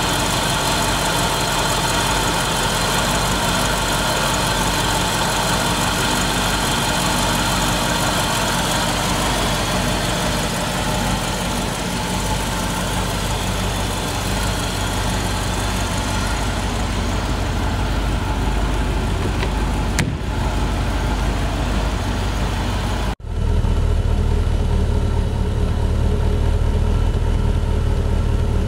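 Mercedes-Benz petrol V8 idling steadily after a cold start, an engine that had stood unused for years. Near the end the sound cuts out for an instant and comes back with a deeper, heavier tone.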